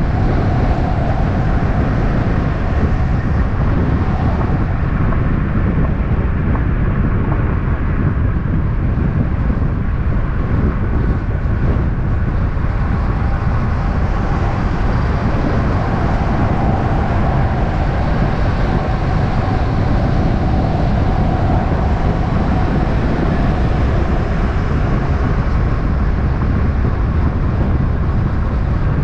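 Steady vehicle and road noise: a continuous low rumble that runs without a break, with faint steady mid-pitched tones above it.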